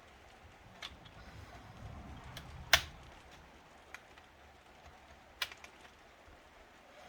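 Scattered sharp clicks and taps of a laptop's plastic casing as a panel held by plastic clips is pried loose. The loudest click comes a little under three seconds in and another about five and a half seconds in.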